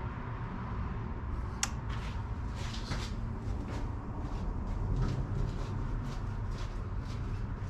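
Scattered clicks and light knocks of hand tools and parts being handled under a car's hood, over a steady low rumble.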